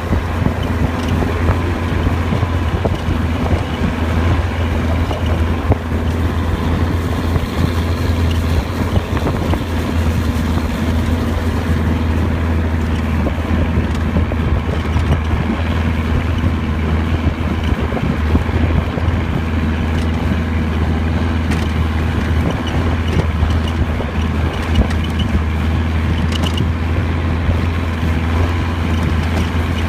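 Boat engine running steadily at a constant speed, a low even hum with the rush of water and air around it.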